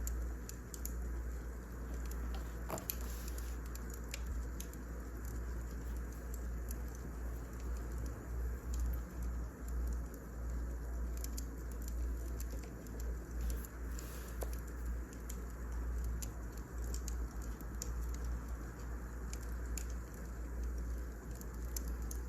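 Firewood burning in a fireplace, crackling with irregular sharp pops over a steady low rumble.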